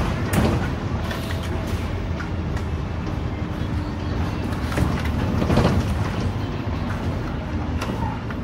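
Cabin sound of a Scania K310UD double-decker bus under way: its diesel engine drones low and steady under road noise and body rattle. A few louder knocks come about half a second in and again about five and a half seconds in.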